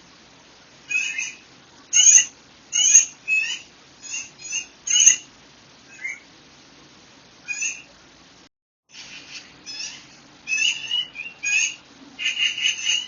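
Songbirds calling in a quick string of short, high chirps and trilled notes, one after another with short pauses, over a faint steady background. The sound cuts out completely for about half a second a little past the middle, then the chirping resumes and grows denser toward the end.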